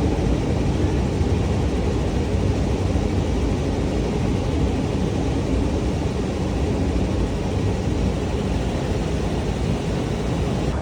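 Steady low rumble and hiss of a moving vehicle, unchanging throughout.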